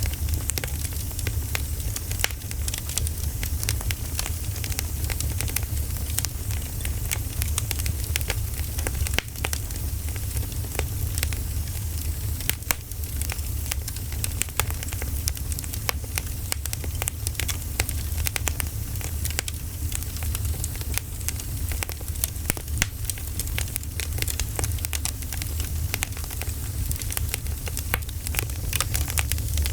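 Wood fire crackling, with many irregular small pops and snaps over a steady low rumble.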